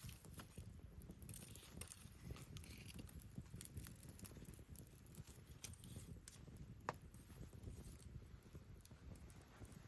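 Wood campfire crackling, with scattered small pops and a sharper pop about seven seconds in.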